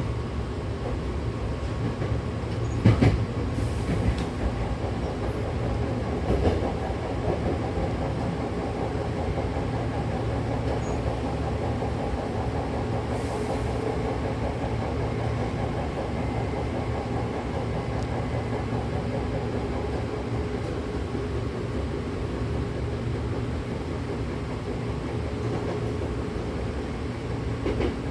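Hankyu electric train running between stations, heard inside the car: a steady rumble of wheels on rails. A sharp knock comes about three seconds in and a smaller one a few seconds later.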